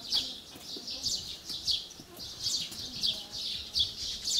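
Small bird chirping over and over, short high notes coming about two or three a second.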